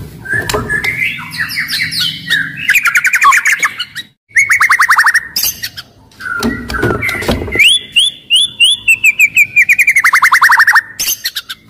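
White-rumped shama singing loudly in an aggressive, fighting-style song: varied phrases with fast trills and runs of quick downward-sweeping notes, in two long bursts with a short pause between them.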